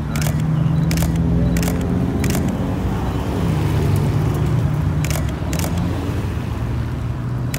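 Mercedes cars' engines running at low revs as they pull slowly past, a steady low engine note that shifts pitch partway through. Sharp camera-shutter clicks come in short runs over it, mostly in the first half.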